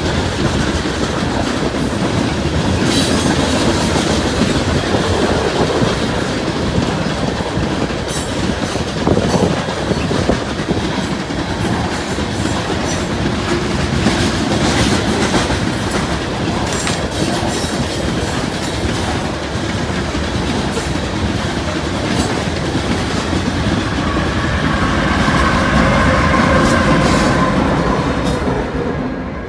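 Coal train's cars rolling past close by: a steady loud rumble with rhythmic clickety-clack of wheels over rail joints. Near the end, a thin wheel squeal rises over the rolling.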